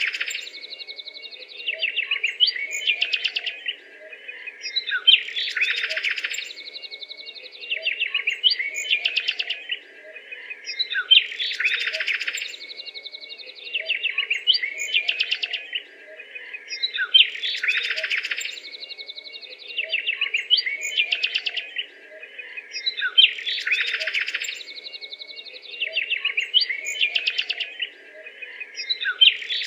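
Birds calling: a rapid, chattering phrase that repeats about every six seconds, over a steady high tone.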